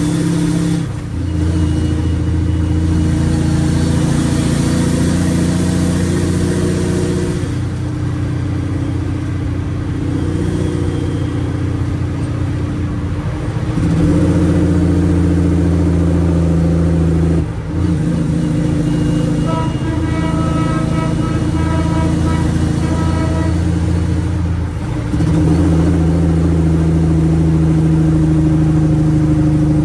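Straight-piped Cummins ISX inline-six diesel running under load. The exhaust note drops out briefly about five times and settles at a new pitch after each, as gears of its 18-speed transmission are changed.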